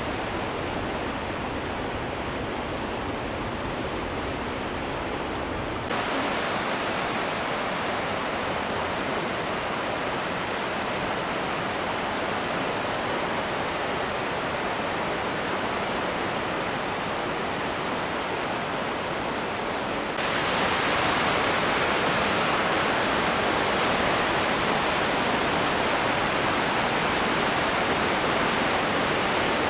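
Goðafoss waterfall rushing, a steady hiss of falling water. Its tone and loudness change abruptly twice, about six seconds in and about twenty seconds in, getting louder and brighter each time.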